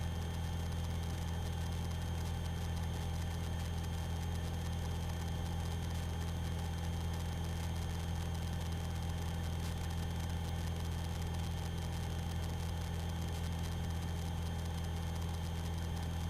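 Light aerobatic aircraft's piston engine droning steadily in cruise, picked up through the cockpit intercom and radio audio, which leaves it muffled and low.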